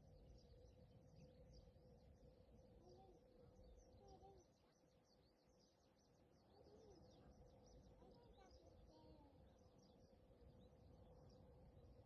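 Very faint birdsong: small birds chirping over and over, with a few lower calls in the middle, over a low rumble and a faint steady hum.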